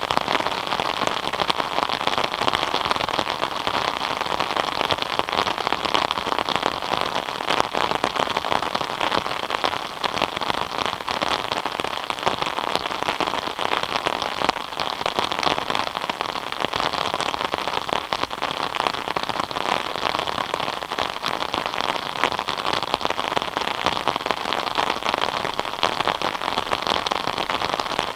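Steady rain falling, a dense even patter of many drops striking surfaces.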